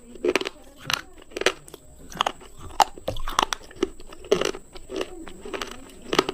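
Slate pencils being bitten and chewed: a run of sharp, brittle crunches, about two a second, with chewing between them.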